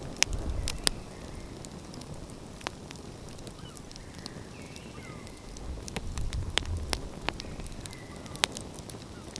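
Outdoor wood fire crackling, with frequent sharp, irregular pops over a low rumble that swells about six seconds in.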